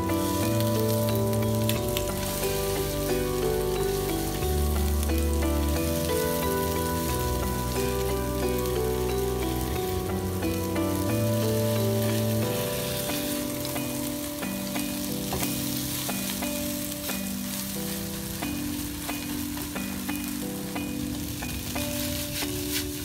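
Toona sprouts and egg sizzling in a hot oiled wok, with a spatula scraping and turning them as they are broken up and stir-fried. Background music of held low notes that change step by step plays throughout.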